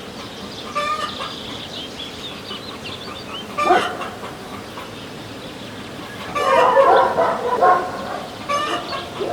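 Chickens clucking, with high chirping in the first few seconds and a louder run of calls from about six seconds in.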